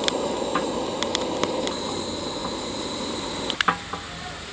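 Wood fire burning in a small portable fire stove: a steady rushing hiss with scattered sharp crackles. About three and a half seconds in come two louder snaps, and the rushing drops away.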